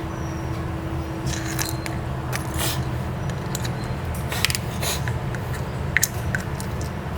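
Scattered small clicks and scrapes of hand tools working on a phone, over a steady low hum.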